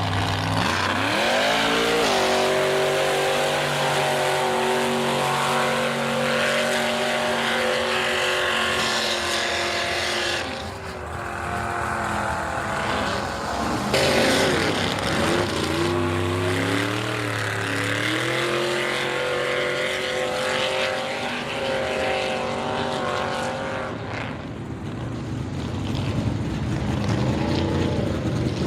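Mega mud truck engine on open headers revving hard, its pitch climbing and falling again and again as the throttle is worked.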